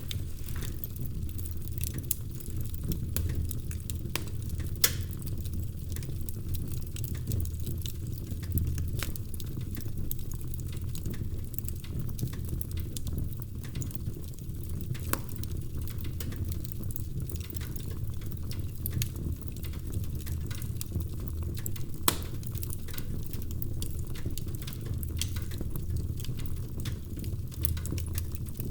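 Wood fire crackling in a fireplace: a steady low rumble of flame with frequent sharp crackles and a few louder pops, one about five seconds in and another near twenty-two seconds.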